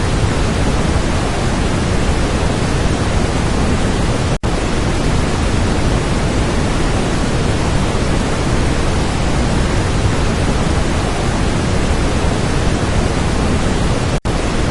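Steady, loud rushing roar of Niagara Falls heard close up from the tour boat, mixed with spray and wind on the microphone. The sound cuts out for an instant about four seconds in and again near the end.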